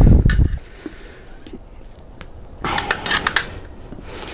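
A dull thump at the start, then a quick run of metallic clinks and clanks about two and a half seconds in: metal tire levers and tools knocking against a dirtbike wheel rim during a tire change.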